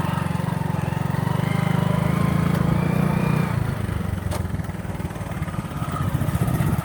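Motorcycle engine running at low revs with a steady, pulsing beat. It eases off about five seconds in and picks up again near the end.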